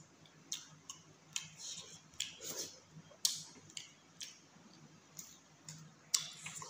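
Close-up mouth sounds of a person chewing a mouthful of chicken curry and rice: wet lip smacks and clicks at an irregular pace of a few a second.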